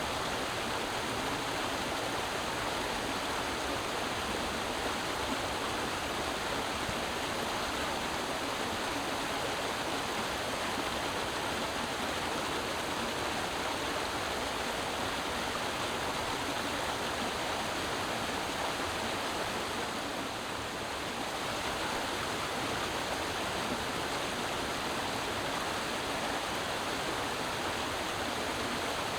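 Creek water rushing and splashing over rocks, a steady, even sound. It dips slightly in loudness for a moment about two-thirds of the way through.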